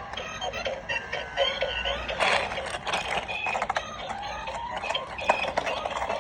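Tinny electronic music and beeping from a battery-powered dancing toy airplane's small speaker, with short clicks running through it.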